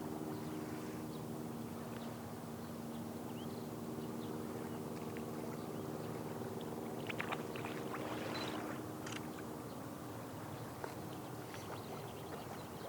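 An engine's steady low drone that fades out about ten seconds in, over a constant outdoor hiss, with a few short high clicks or chirps around seven to nine seconds in.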